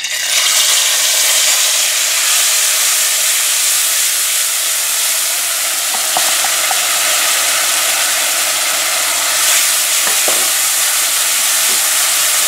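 Curry paste frying in hot oil in an aluminium pot: a loud sizzle that starts suddenly as the paste hits the oil and keeps on steadily while it is stirred with a silicone spatula, with a few faint scrapes of the spatula on the pot.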